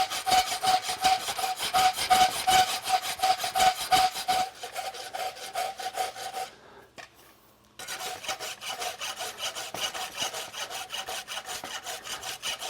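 Rapid, even rasping strokes working a steel horseshoe, cleaning up around the heel caulks. The strokes stop for about a second past the middle, then carry on.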